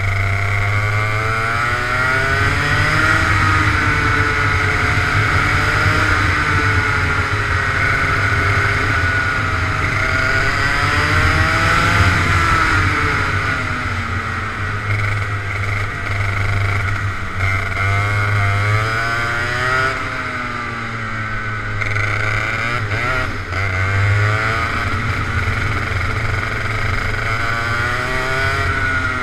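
Go-kart engine running hard, its pitch rising and falling over and over as the kart accelerates and lifts through a lap's corners.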